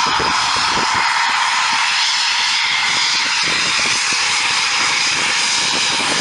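Eurofighter Typhoon's twin jet engines running with a steady, loud roar and a thin high whine over it.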